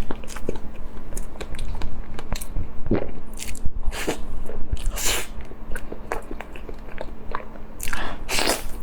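Close-miked eating: food being bitten and chewed, with many short wet clicks from the mouth and a few longer hissing bursts.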